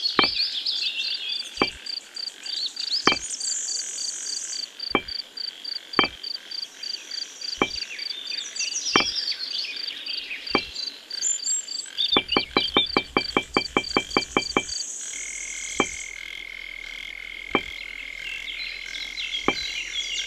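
Miniature clay bricks clicking down one at a time onto a toy trailer bed, a sharp tap every second or so, with a fast rattling run of clicks about two-thirds through. Behind them runs a nature ambience of frog croaks, insect chirping and bird calls, which turns into a steady insect drone near the end.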